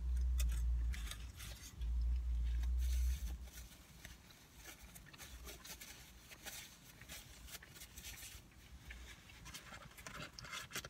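Soft, scattered clicks and rustles of someone eating: chewing and handling food. Two low rumbles of about a second each come in the first three seconds.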